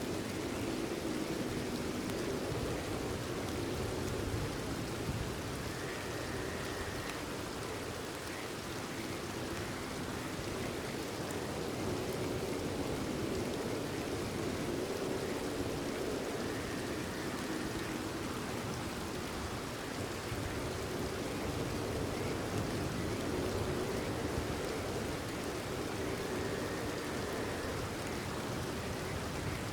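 Steady rain falling, with a chorus of frogs croaking underneath. A short, higher call comes three times, about ten seconds apart.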